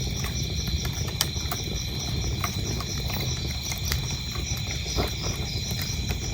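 Wood fire burning with a steady low rumble and scattered sharp crackles and pops, over crickets chirping in a steady pulsing rhythm.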